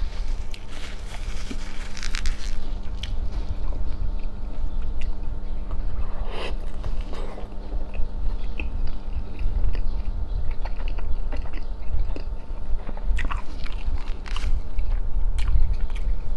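A person chewing mouthfuls of roti john, a soft bread roll loaded with chicken, egg, vegetables and cheese, close to the microphone. There are wet chewing sounds and many small mouth clicks.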